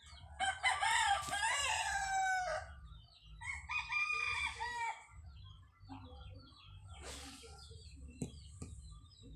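A chicken giving two long, wavering, crow-like calls, the second shorter. Fainter short calls follow near the end, over a steady low rumble.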